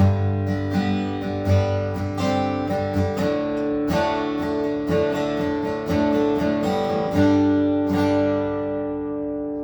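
Seagull SWS mahogany acoustic guitar being strummed and picked through a run of chords. A little after seven seconds in, a final chord is struck and left ringing, slowly fading.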